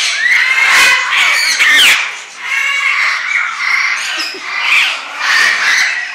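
Many birds squawking and calling at once, loud and overlapping, with shrill rising and falling calls; the din dips briefly a little past two seconds in.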